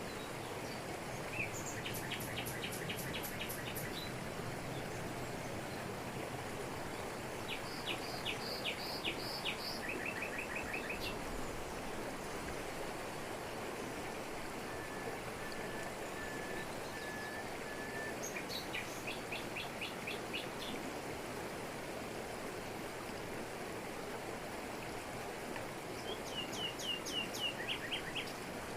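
Steady rushing of a waterfall in tropical forest, with birds singing short phrases of quick, high repeated notes every few seconds, one of them a row of soft whistles around the middle.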